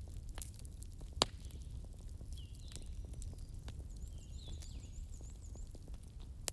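Fire crackling: a low rumble under scattered small crackles, with one sharp pop a little over a second in. Faint high chirps sound now and then over it.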